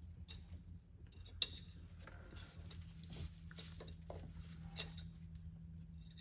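Light metallic clicks and clinks of safety wire and a hand tool being worked at a freshly safety-wired oil filter, as the cut end of the wire is bent in, with a sharper click about a second and a half in. A steady low hum runs underneath.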